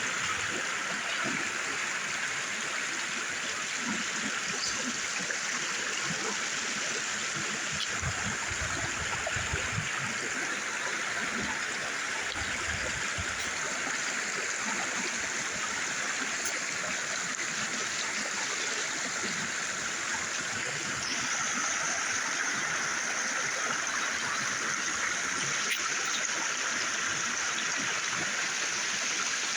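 A river flowing over rocks, a steady rushing and gurgling of running water that shifts slightly in tone about two-thirds of the way through.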